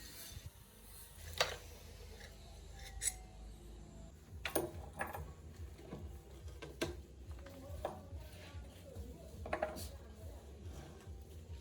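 Irregular metallic clicks and clinks of tools and metal parts being handled, about a dozen spread out, some with a short ring.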